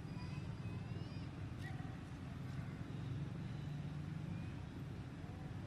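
Steady low rumble, like a distant engine, with a few faint high chirps over it early on.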